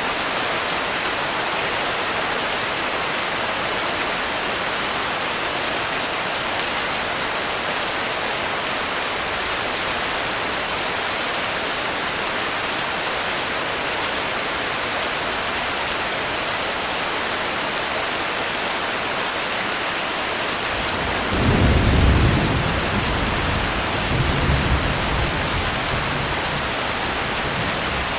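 Steady heavy rain. About 21 seconds in, a low rumble of thunder rises, peaks, and rolls on in a second, weaker swell before fading after about five seconds.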